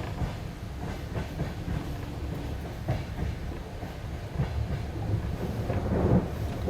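Passenger train carriage running, its wheels clacking over rail joints with irregular knocks over a steady low rumble. A louder, deeper swell of rumble comes about six seconds in.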